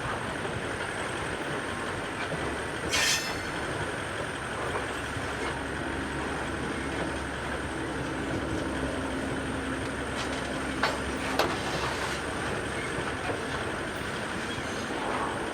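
Grain train hopper wagons rolling past with a steady rumble of steel wheels on rail. A short, sharp wheel screech comes about three seconds in, and two sharp clicks come near eleven seconds.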